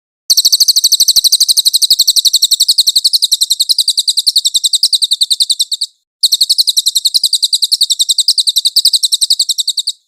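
Cililin bird singing a clear, high-pitched trill of rapidly repeated notes: one long run of about five and a half seconds, a brief break, then a second run of about four seconds.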